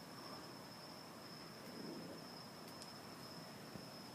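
Insects trilling: a faint, steady high-pitched drone without a break, with a few faint clicks about three seconds in.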